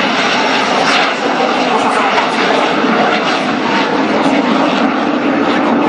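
F-16AM Fighting Falcon's jet engine running steadily as the fighter flies a slow, nose-high pass at about 200 km/h and a high angle of attack. A low drone in the noise grows stronger in the second half.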